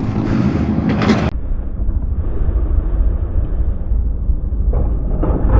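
Low, steady vehicle and road rumble that turns muffled, losing its upper hiss, about a second in.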